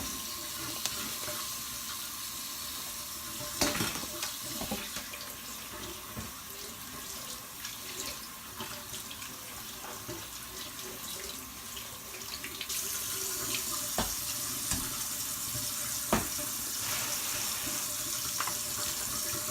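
Kitchen tap running water over baby carrots as they are rinsed, with scattered short knocks and clatters as they are handled. The water gets louder a little past halfway through.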